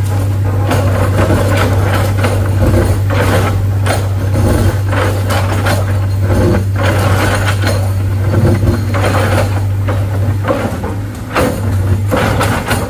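Heavy diesel engine running steadily with a low drone, with repeated knocks and clatter over it.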